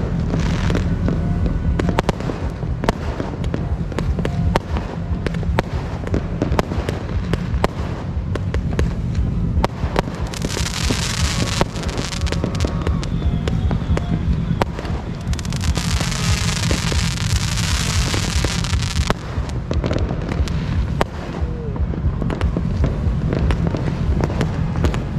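New Year's fireworks and firecrackers going off without a break: a dense stream of rapid bangs and crackles. Two long loud hissing stretches rise over it, about ten seconds in and again from about fifteen to nineteen seconds.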